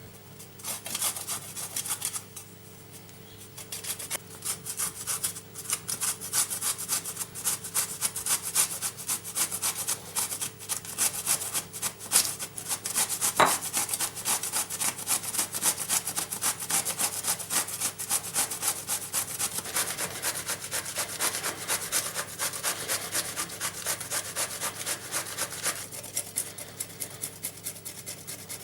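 Zucchini being grated on a hand grater: a long run of quick, even rasping strokes, with a brief pause about two seconds in and a single sharp knock about halfway through.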